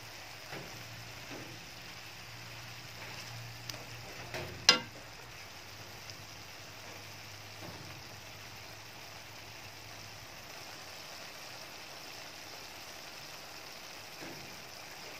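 Shrimp and chopped cabbage sizzling steadily as they stir-fry in a pan, with one sharp knock about five seconds in and a few lighter clicks.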